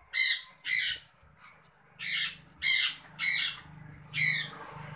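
A bird calling: six short, loud cries, two in quick succession near the start and four more spaced about half a second to a second apart from about two seconds in.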